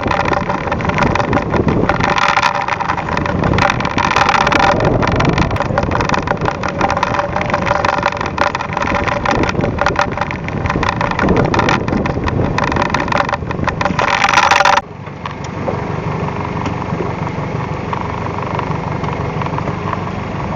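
Fishing boat's engine running under way, with loud rushing wind and water noise. About fifteen seconds in the noise drops abruptly to a quieter, steady engine hum.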